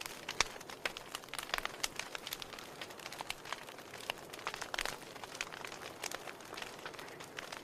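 Wood campfire burning, with irregular sharp crackles and pops over a soft steady hiss.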